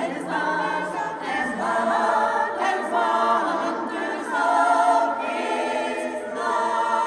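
Barbershop chorus singing a cappella, many voices holding slow sustained chords that change about every second.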